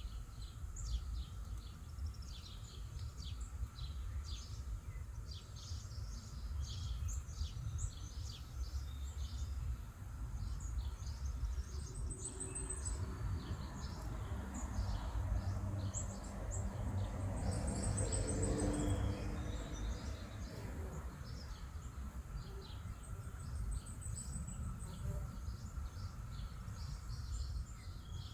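Outdoor background of small birds chirping over and over, over a steady low rumble. In the middle a broader mechanical hum with a few steady tones swells and then fades.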